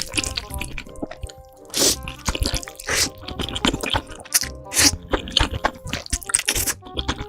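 Close-miked eating of noodles: wet slurps and chewing, loudest about two, three and five seconds in, over background music.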